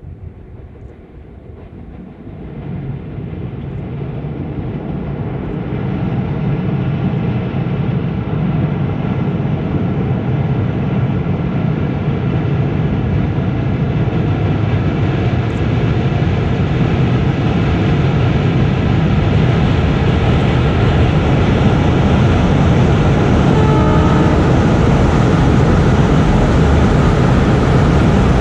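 Metre-gauge diesel train approaching, its engine drone and running noise growing steadily louder.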